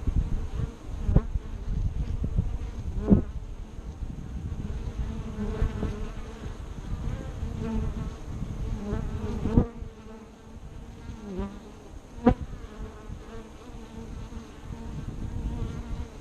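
Honeybees buzzing close by as they fly in and out of a hive entrance, the buzz rising and fading as individual bees pass. A few sharp taps are heard, the loudest about three seconds in and about twelve seconds in.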